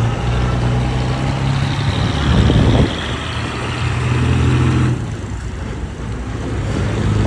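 Old heavy truck's diesel engine running with a low, steady drone, its note shifting abruptly a couple of times.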